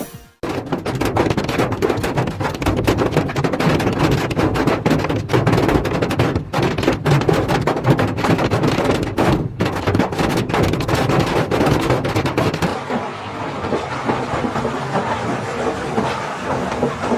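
Large hailstones pelting down hard, a dense, continuous clatter of rapid impacts that turns duller near the end.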